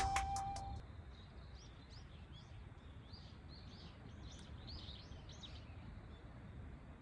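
Small birds chirping faintly, many short high calls, over a low steady outdoor background noise. The last note of the intro music fades out in the first second.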